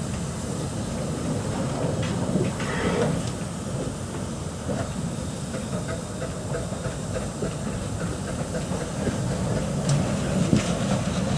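Narrow-gauge steam train running: a steady low rumble with a hiss of steam, and a few sharp clicks near the end.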